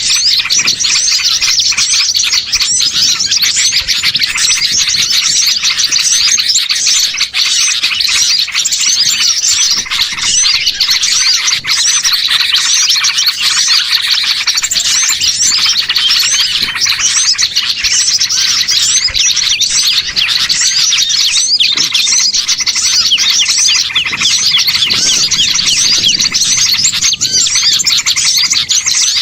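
Dense chorus of many small songbirds chirping and twittering at once, steady and loud with no pauses: a bird-lure recording of small birds used to draw wild birds in.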